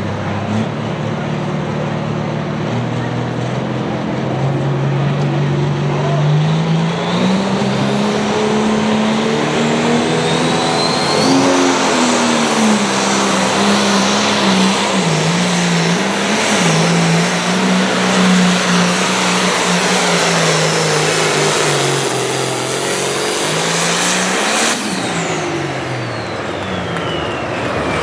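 Turbocharged diesel Limited Pro Stock pulling tractor running flat out under load down the pulling track, its engine note climbing over the first several seconds with a thin rising whine, then holding high with small dips. Near the end the engine note drops and changes as the pass winds down.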